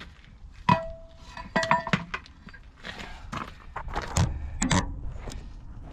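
Irregular metallic clinks and knocks from tools or loose metal parts being handled, one giving a short metallic ring about a second in.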